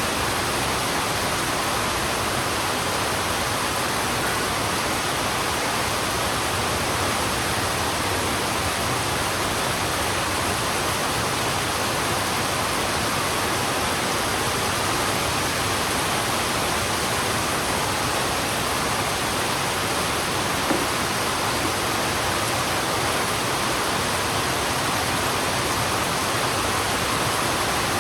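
Heavy rain falling steadily on a road, an even unbroken hiss, with one brief faint knock about three-quarters of the way through.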